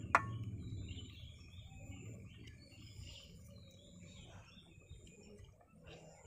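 A single sharp click of a tool on metal right at the start, then faint scattered chirping of small birds.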